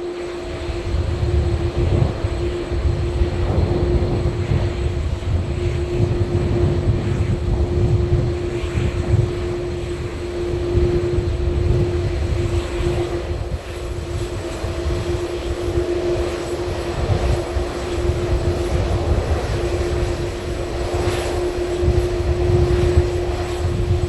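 Airliner's engines running, a deep rumble with a steady droning note over it, holding fairly even throughout.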